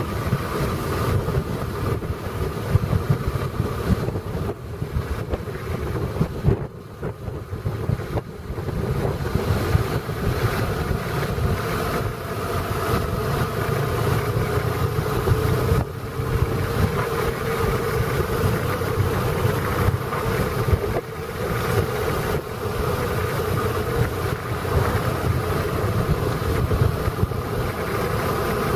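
A vehicle engine running steadily on the move, its pitch drifting slowly with road and wind rumble buffeting the microphone. The sound dips briefly about seven seconds in.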